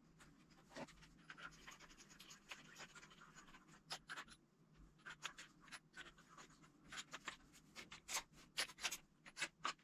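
Faint, scattered clicks and scratches of small handling noises, growing more frequent in the last few seconds.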